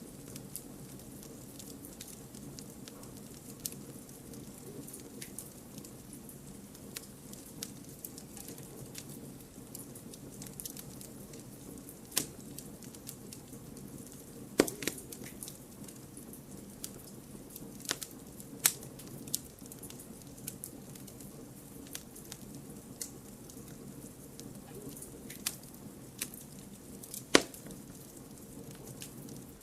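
Wood campfire burning: firewood crackling with irregular sharp pops over a low, steady rush of flame. A few pops stand out louder: a little under halfway, twice around two-thirds of the way, and once near the end.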